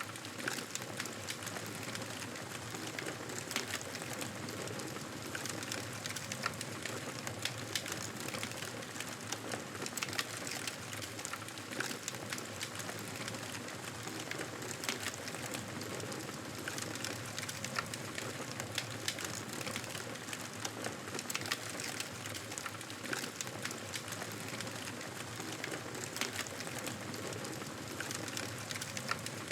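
Wood fire burning, a steady hiss with frequent sharp crackles and pops.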